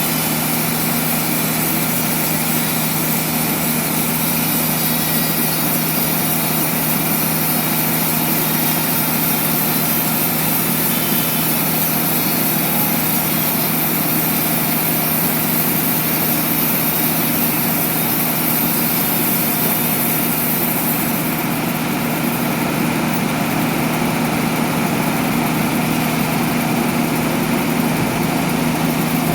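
Sawmill machinery running steadily: a constant mechanical hum with a bright hiss on top, unbroken and without distinct strokes.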